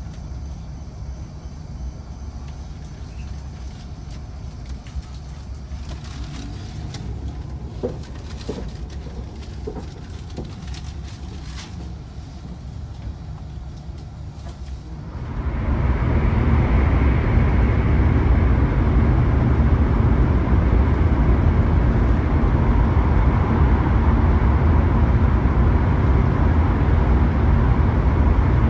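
Hokuriku Shinkansen cabin noise: a low steady rumble with a few faint clicks, then about halfway an abrupt jump to a loud, even rushing noise of the train running.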